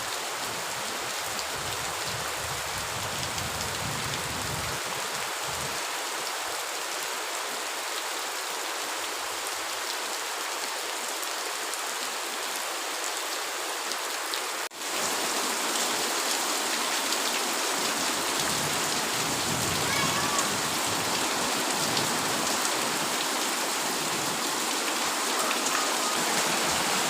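Heavy rain falling steadily, a dense even hiss. About halfway through it drops out for an instant, then carries on a little louder.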